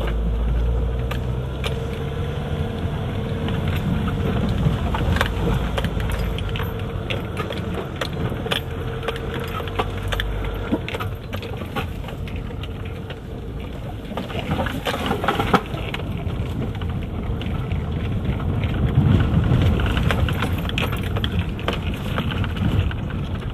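Car running along a rough track, with a steady engine hum and rumble and frequent rattles and clicks.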